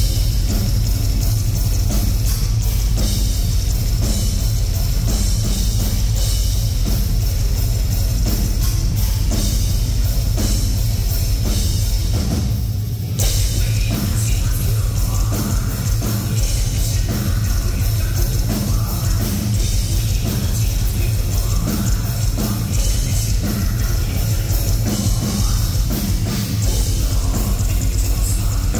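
Heavy metal band playing live and loud: pounding drum kit and dense distorted guitars. The band drops out for a moment about 13 seconds in, then comes back in.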